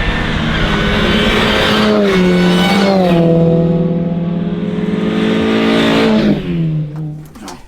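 Mini Roadster's engine running hard on track, its pitch dropping twice in quick steps early on, then holding steady before the revs fall away near the end as the car slows.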